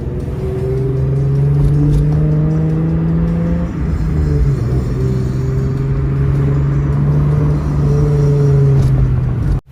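Hyundai Genesis Coupe 3.8 V6 with a full ARK exhaust (ceramic headers, test pipes, GRIP cat-back) under way. The exhaust note pulls steadily, drops briefly a third of the way in as at a gear change, then pulls again and cuts off suddenly near the end.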